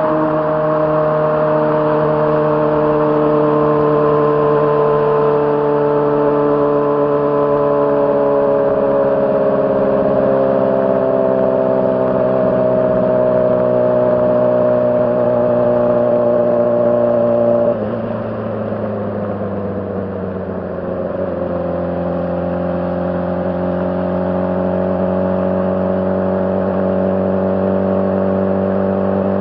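Honda CBR600RR's inline-four engine running under steady throttle, its pitch sinking slowly. About eighteen seconds in the sound drops suddenly as the throttle eases, and a few seconds later the pitch climbs steadily as the bike accelerates again.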